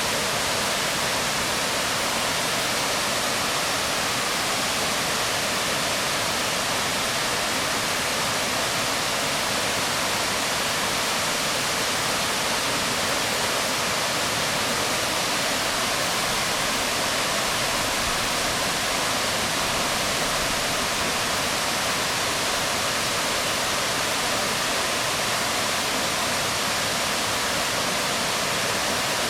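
Waterfall splashing onto rocks: a steady, even rush of falling water with no change.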